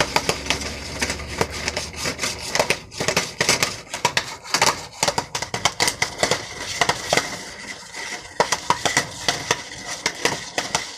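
Popcorn kernels popping irregularly inside a Jiffy Pop foil pan on a stovetop burner, many sharp pops a second.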